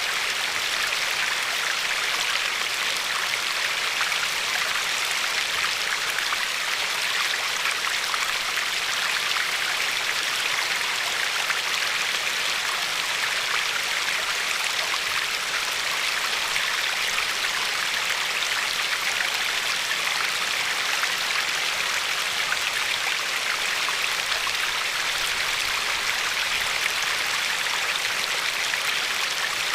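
Glacier-fed river flowing and lapping along a pebbly shore: a steady rushing wash of water with no pauses.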